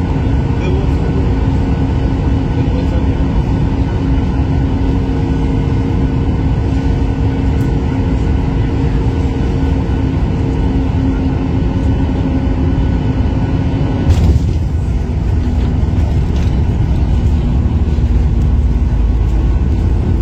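Airliner cabin noise: a steady low drone of engines and airflow with a constant hum in it. About 14 s in there is a sudden short jolt, and the sound changes to a heavier low rumble.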